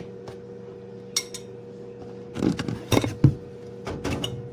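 Baking pan and utensil clinking and clattering as baked pastries are lifted out: one sharp ringing clink about a second in, then a run of clattering knocks in the second half, over a steady low hum.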